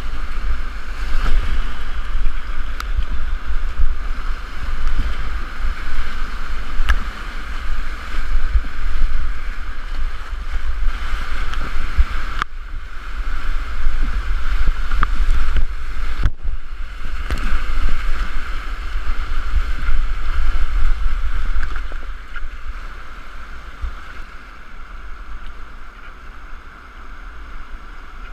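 Rushing river whitewater around a kayak, with a heavy low rumble of wind and water buffeting on the microphone. It drops out briefly twice and is quieter over the last several seconds.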